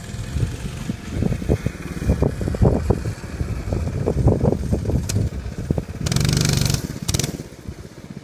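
Small single-cylinder mini bike engine running and revving unevenly. About six seconds in, a loud rushing noise lasts under a second, then comes again briefly.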